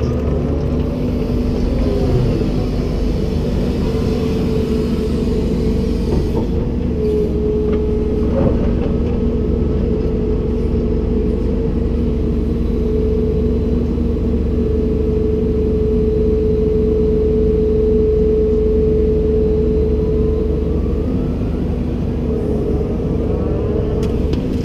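Komatsu PC290-10 excavator running: a steady diesel drone with a whine from the hydraulics. The whine dips slightly in pitch and grows stronger through a long stretch in the middle.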